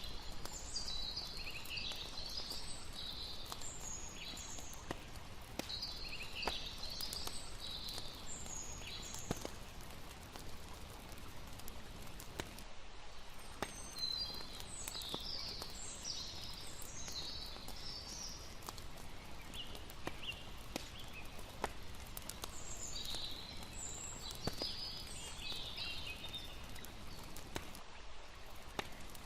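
Layered campsite night ambience: a steady hiss of running water under the crackle of a campfire, heard as scattered sharp pops, with high chirping calls coming in clusters every several seconds.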